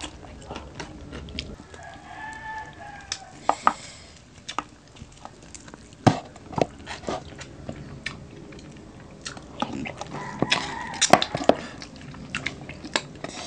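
Close-up eating sounds from crispy pata pork and salmon eaten by hand: chewing and mouth smacks with many scattered sharp clicks and taps. A rooster crows in the background about two seconds in.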